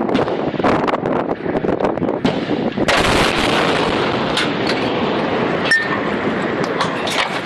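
Heavy gunfire: a dense crackle of many shots over a continuous din, which turns suddenly louder and harsher about three seconds in.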